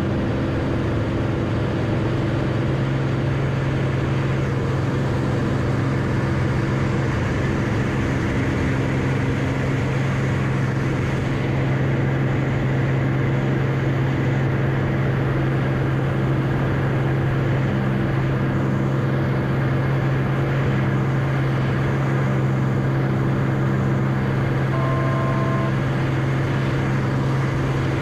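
Light aircraft's piston engine and propeller droning at a steady, unchanging pitch, as heard from inside the cockpit. A short two-tone beep sounds near the end.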